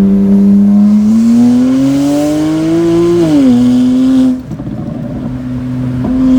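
Straight-piped BMW 335i's twin-turbo N54 inline-six, exhaust running with no mufflers or cats, pulling under throttle. Its pitch climbs for about two seconds, drops at an upshift, and then the throttle lifts about four seconds in. The note goes quieter before it comes back steady near the end.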